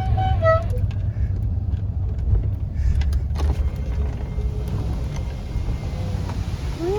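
A car's musical horn plays the last notes of a tune in clear stepped tones, then stops; the car's low engine and road rumble carries on underneath, with a single click about three seconds in.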